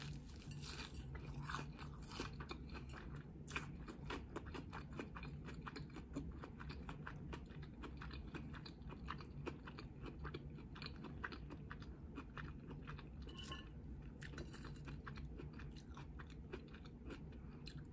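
A person biting into and chewing a crunchy, panko-crusted fried Korean corndog, with many small crisp crunches that keep coming throughout.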